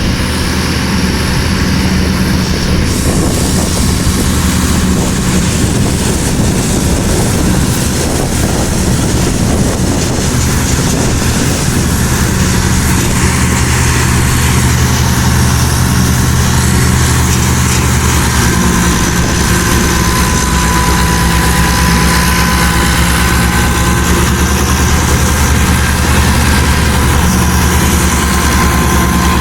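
Farm tractor's diesel engine running loud and steady. A faint high whine joins in over the second half.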